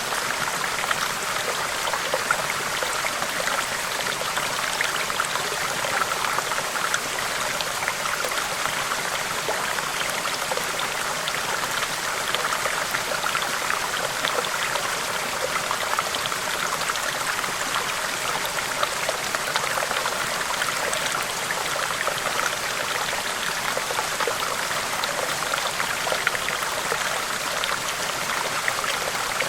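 River water rushing steadily over rocks, a continuous, even wash of flowing water with many small splashes in it.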